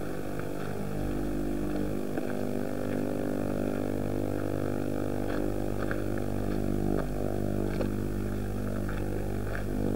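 Engine of a moving car, a steady drone heard from inside the vehicle, with a few faint clicks and rattles.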